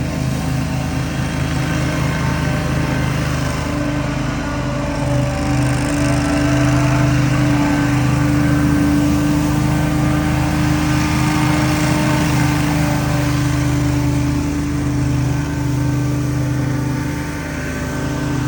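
Small gas engine of outdoor power equipment running steadily under load, getting a little louder after the first few seconds.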